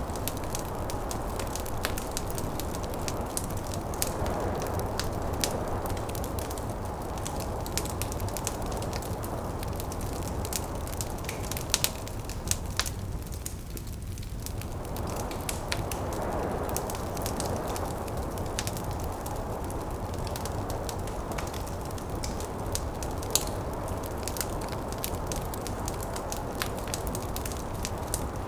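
Wood fire crackling with frequent sharp pops and snaps, over a steady rushing of snowstorm wind that swells and eases, thinning out briefly about halfway through.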